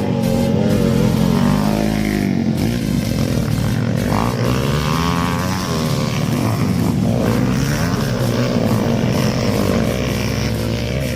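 Dirt bike engines revving, their pitch rising and falling over and over.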